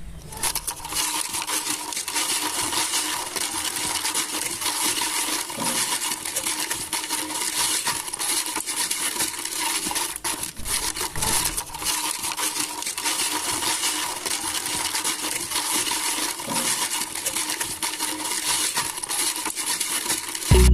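Continuous dense rattling and clinking of many small hard pieces over a faint steady hum.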